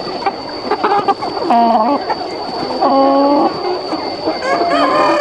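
A flock of chickens calling and clucking: a dense chatter of many birds, with louder drawn-out calls standing out about a second and a half, three and four and a half seconds in. A steady high-pitched whine runs underneath.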